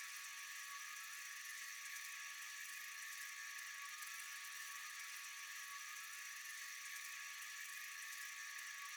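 Steady chorus of night insects: a continuous high-pitched buzzing hiss with a few thin steady tones, unchanging throughout.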